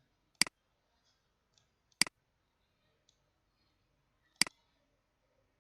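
Three sharp computer mouse clicks, spaced about two seconds apart, over a quiet room.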